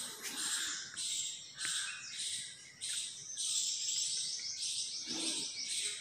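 Birds chirping in trees: short high-pitched calls repeating about once a second, with a fast trill a few seconds in.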